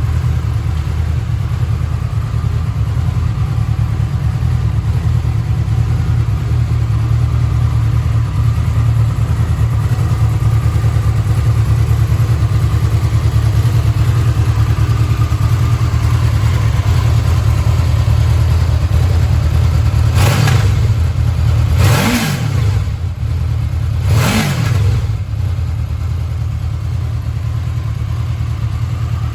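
Honda VFR800F V4 engine idling steadily, then revved three times in short throttle blips about two seconds apart near the end, each rising and falling quickly before it settles back to idle.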